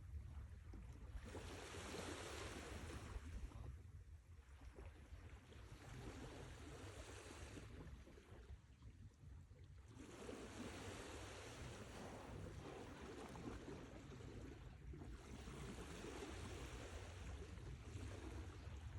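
Sea waves surging and receding in swells a few seconds apart, over a steady low rumble of surf.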